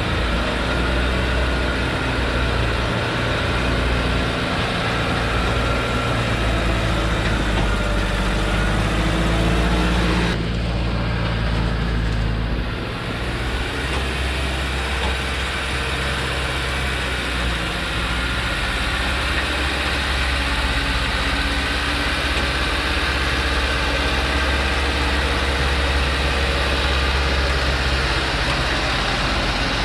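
Diesel engine of a Thaco truck running steadily, with a shift in its pitch and a brief dip about ten seconds in.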